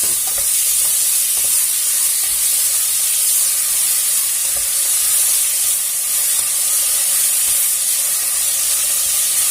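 Sliced onions and tomatoes sizzling steadily in hot oil in a pan, with a few faint knocks from stirring.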